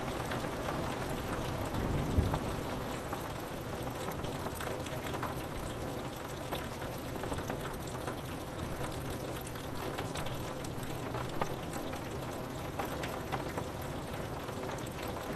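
Steady rain on a window, an even hiss with many small drops ticking against the glass. A brief low thump about two seconds in.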